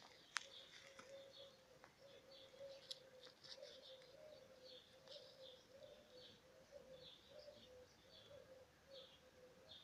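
Faint outdoor birdsong: small birds chirping over and over, with a faint steady low hum underneath and a single sharp click about half a second in.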